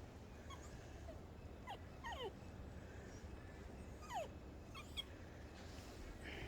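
A dog whining in several short, high whimpers that fall in pitch, faint, with the loudest about four seconds in.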